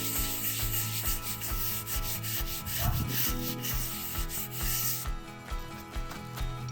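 Stiff scrubbing brush scrubbed back and forth over a wet concrete bird bath in quick, repeated strokes. The bristle hiss drops sharply about five seconds in.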